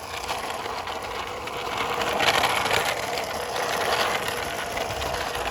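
Toy microbus rolled along a surface, its small wheels making a steady rattling whir.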